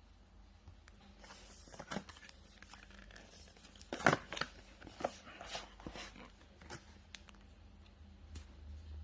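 Packaging being torn and crinkled by hand while a laptop box is opened: rustling that starts about a second in, then a run of sharp crackles and snaps, the loudest about four seconds in.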